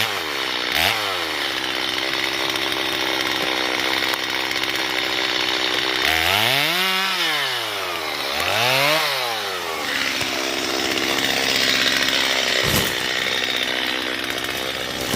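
Chainsaw cutting into a tree being felled. The engine revs up and falls back three times, with steadier running between. There is one short knock near the end.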